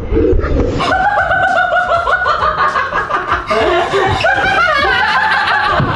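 People laughing loudly in a long run of short, rapid bursts that starts about a second in.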